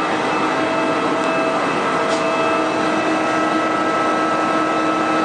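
Steady machinery hum in a machine shop: a constant noise bed with a steady whine of several tones, unchanging throughout.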